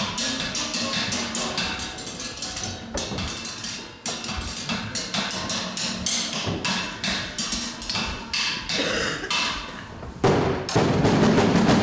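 Live percussion: rapid knocking on wood blocks and drums, with a louder burst of noise in the last couple of seconds.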